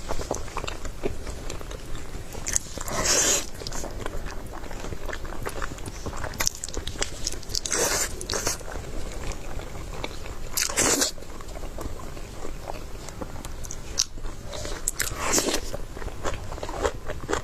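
Close-up eating sounds: a person biting and chewing, with continual small crunchy, wet clicks and a few louder bursts lasting about half a second each, spaced a few seconds apart.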